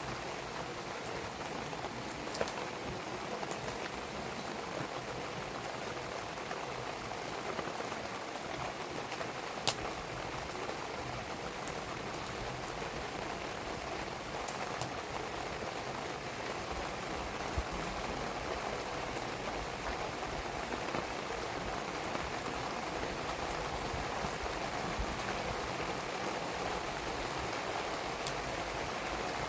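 Steady rain falling, with a few sharp pops from a burning wood fire scattered through it, the loudest about ten seconds in.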